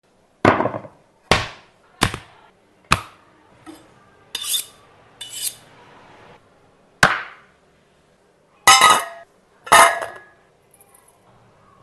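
Kitchen utensils knocking and clanking, about nine separate sharp knocks, the last few ringing like metal.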